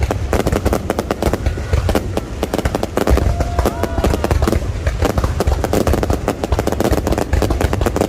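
Aerial fireworks display going off in a rapid, unbroken string of bangs and crackles, with crowd voices rising through it.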